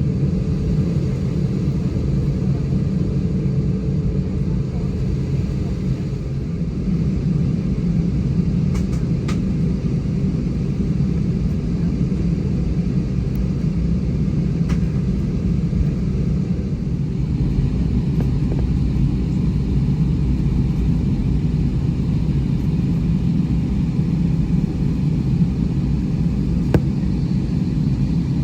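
Steady low rumble of an Airbus A319 airliner's cabin, the jet engines and air system running evenly, with a few faint ticks.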